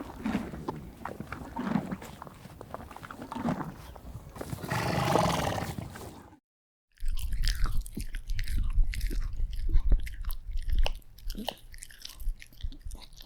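An animal eating, with low grunting sounds about every second and a half and a swell of wet, noisy chewing, then after a brief silent cut a second recording of crunchy biting and chewing with many sharp crackles.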